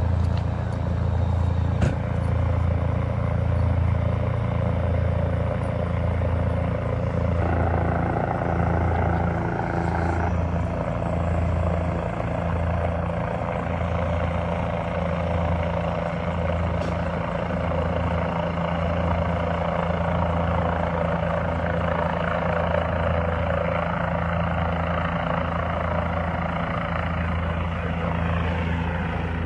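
Medical transport helicopter running close by: a steady, pulsing low beat of the rotor blades over the engine.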